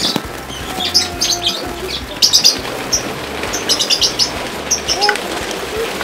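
Aviary birds chirping: quick clusters of short, high twittering notes, again and again.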